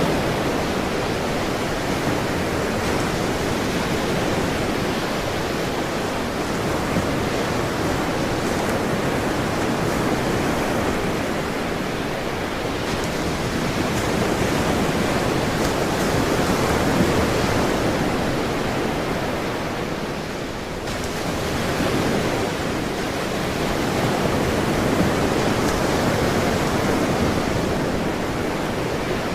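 Ocean surf: a continuous wash of breaking waves, swelling and easing slowly, with a brief lull about two-thirds of the way through.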